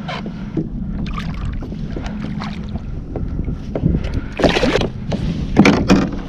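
Kayak on the water with wind on the microphone and a steady low hum, broken by two louder, sharper bursts of sound over the second half.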